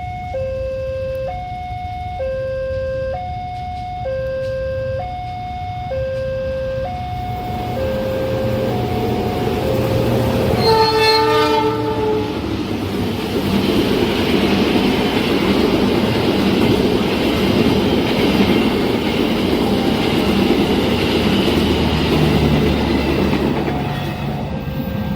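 Level crossing warning alarm sounding in two alternating tones, then a train horn about eleven seconds in, followed by the rumble and wheel clatter of a long train passing at speed.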